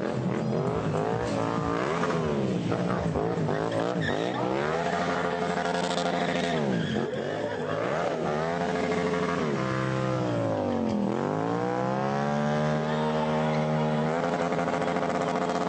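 Stunt motorcycle engine revving up and down over and over. Its pitch rises and falls every couple of seconds, drops deep past the middle, then climbs and holds high before falling again near the end.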